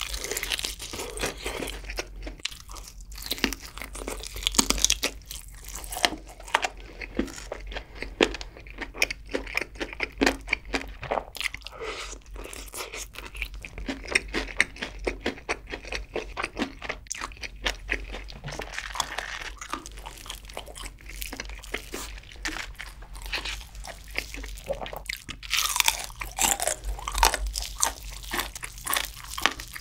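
Close-miked crunching and chewing of crispy fried chicken: a dense run of sharp, crisp crunches as the batter breaks between the teeth, with softer chewing in between.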